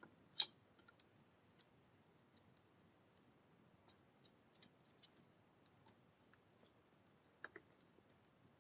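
Wood fire crackling: scattered small, sharp pops and ticks, with one loud snap about half a second in and a quick double pop near the end.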